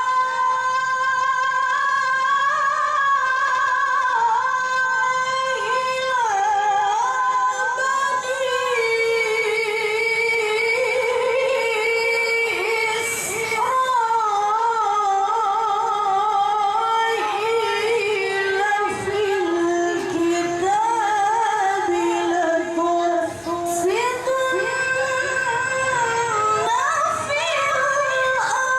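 A woman's high voice reciting the Quran in melodic tilawah style, in long held, ornamented phrases. The pitch sinks lower about two-thirds of the way through and climbs back up near the end.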